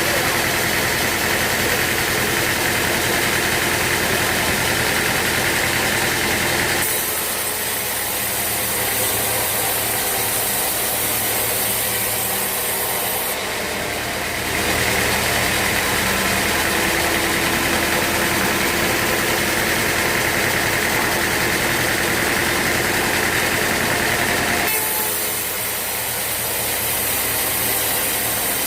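Sawmill machinery running steadily, a continuous mechanical hum with a steady high whine. The sound changes abruptly a few times, about 7, 14 and 25 seconds in.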